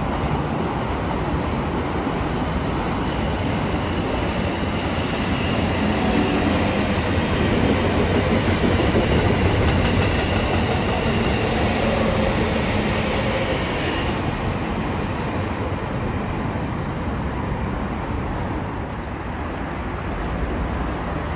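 JR Kyushu 811 series electric commuter train passing close by: a steady rumble of wheels on rail, with a thin high-pitched squeal that slowly falls in pitch from about five seconds in and stops at about fourteen seconds.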